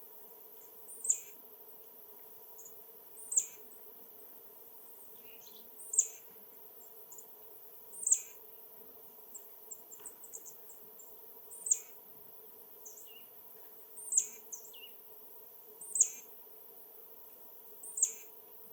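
A small bird calling: eight sharp, high call notes, each dropping steeply in pitch, repeated about every two seconds.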